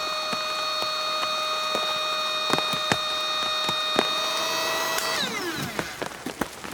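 A motor running with a steady whine and scattered clicks, then winding down in pitch and stopping about five seconds in, followed by irregular knocks.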